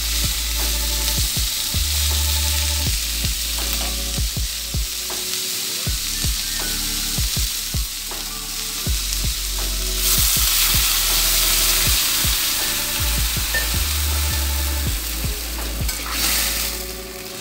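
Chopped salted mustard greens and tomato frying in a metal wok over a gas flame: a steady sizzle, with a metal spatula scraping and tapping against the wok as it stirs. The sizzle gets louder about ten seconds in.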